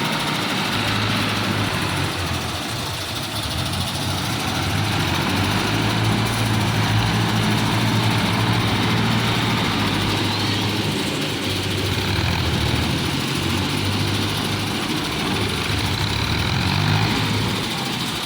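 Tractor engine running steadily, its deep engine note swelling and easing slightly.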